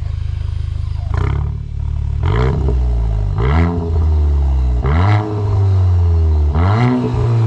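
Exhaust of a Volkswagen MK8 Golf GTI's 2.0-litre turbocharged four-cylinder, running through a muffler delete with the stock downpipe. It idles, then is blipped five times in quick succession, each rev climbing and dropping back to idle.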